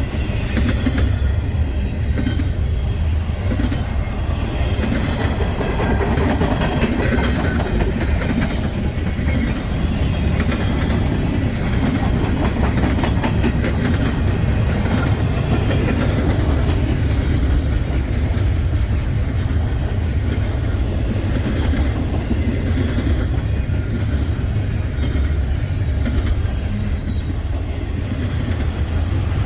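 Freight train cars rolling past: a steady low rumble with the clickety-clack of wheels over the rails. A thin, very high squeal comes and goes in the second half.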